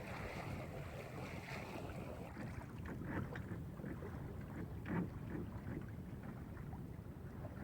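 Wind buffeting the microphone and water rushing along a sailboat's hull under sail, with a couple of short knocks about three and five seconds in.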